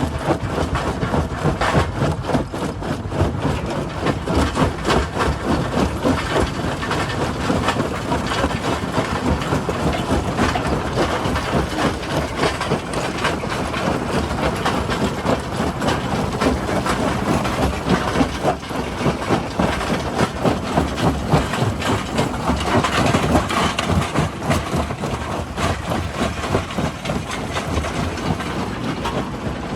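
Jaw crusher running and breaking rock: a steady heavy rumble filled with rapid, irregular clattering knocks of stone in the jaws.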